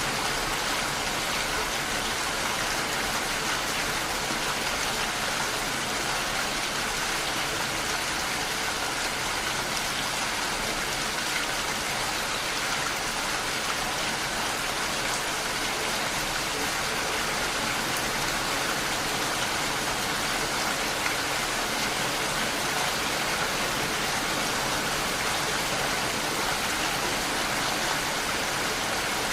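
Steady rain falling, a constant even hiss of drops.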